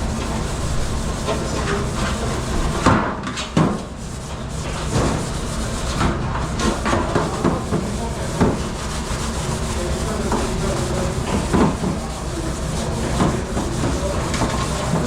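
Irregular knocks and clatter of dishware and kitchenware being handled at a commercial dishwashing station, over a steady machine hum.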